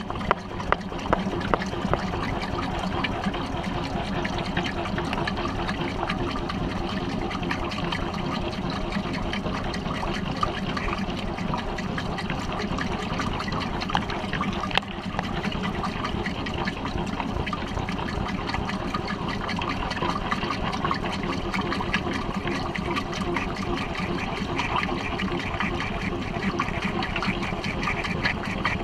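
Water rushing and splashing steadily inside a Maytag washing machine's tub, heard from within the tub, as when the tub is filling with water.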